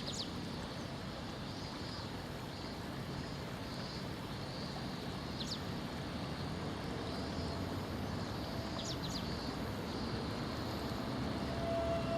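Steady outdoor background rush with a faint, high, dashed trill that comes and goes every second or two, and a few short, high bird chirps.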